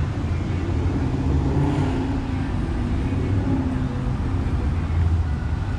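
A car engine running steadily at idle: an even low rumble with no revving.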